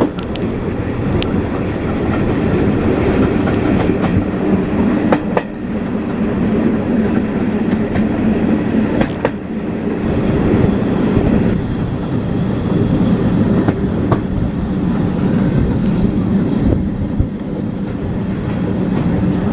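Train running along the line: a steady low rumble of the carriages, with a sharp click of the wheels over rail joints every few seconds.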